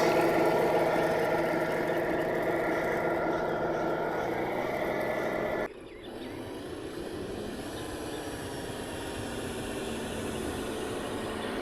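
Radio-controlled model construction vehicle running with a steady, even hum. The sound cuts off suddenly a little over halfway through, and a quieter running sound follows, shifting slightly in pitch.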